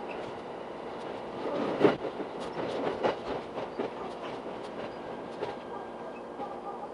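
Shinano Railway SR1-series electric train running through pointwork into a station, heard from inside the carriage. Its wheels make a quick run of clicks and knocks over the rail joints, loudest about two seconds in, over a steady running rumble.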